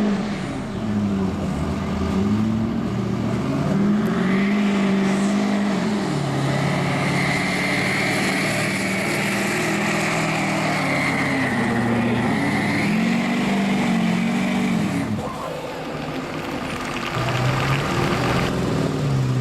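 Street-class diesel pickup truck engine at full load pulling a sled, its pitch rising and falling as the throttle works, with a high turbo whistle over the middle of the pull. The engine drops off briefly about three quarters of the way in, then revs again near the end.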